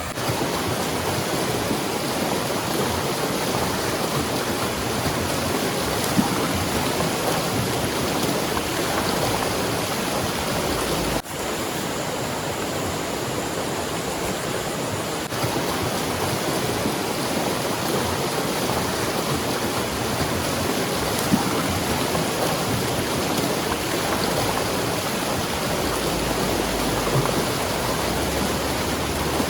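River running high and fast, a steady, even rush of water, swollen by heavy rain upstream. There is one brief dip in the sound about eleven seconds in.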